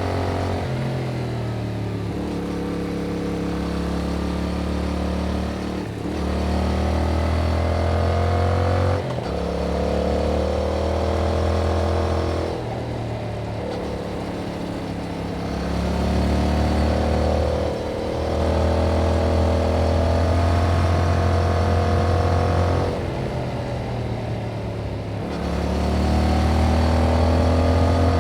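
Yamaha MT-07's parallel-twin engine through its original exhaust, ridden under load. The engine note repeatedly climbs in pitch and then drops sharply, about every three to six seconds, as the throttle is worked, with the sound growing louder on each pull.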